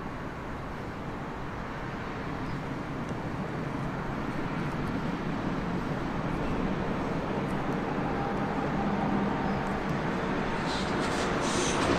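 An approaching train hauled by a DB class 143 electric locomotive, its rumble of wheels on rails growing steadily louder. A sharper hiss from the wheels and rails joins in near the end.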